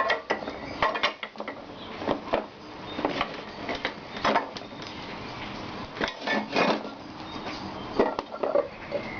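Iron parts of an antique German blacksmith's vise clinking and knocking against each other as they are handled and fitted together during reassembly: irregular metallic clinks and knocks.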